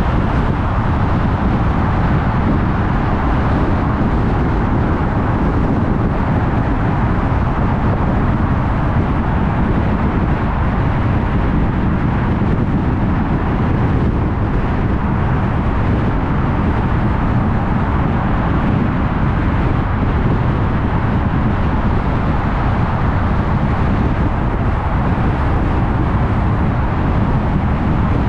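Steady road noise of a car driving: tyre and wind noise with engine hum, even throughout with no distinct events.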